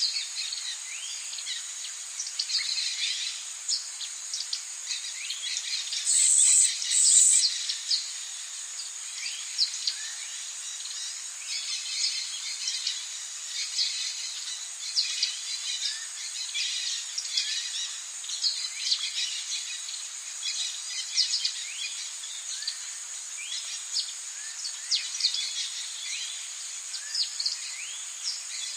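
Rainforest ambience: a steady high insect drone under many short bird chirps and whistles. A louder, high-pitched double buzz comes about six seconds in.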